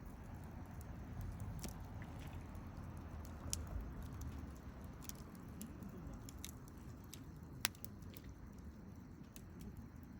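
Wood campfire crackling, with scattered sharp pops and one louder pop about three quarters of the way through, over a low rumble.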